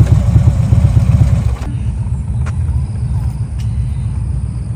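Motorcycle engine running close by, a loud, pulsing low rumble that drops off abruptly about a second and a half in and carries on more quietly.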